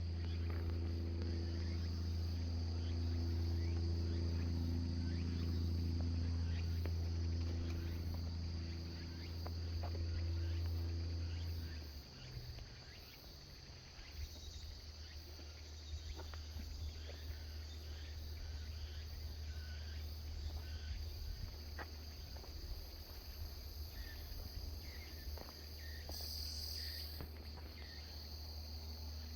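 Insects chirring steadily in a high, even band, with a few faint bird chirps scattered through the second half. A low hum under them stops about twelve seconds in.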